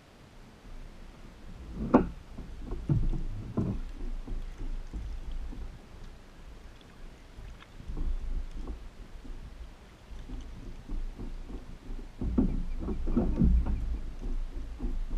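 Irregular knocks and bumps on a fishing kayak's plastic hull, with a low rumble of handling and water, in two clusters: a few seconds in and again near the end.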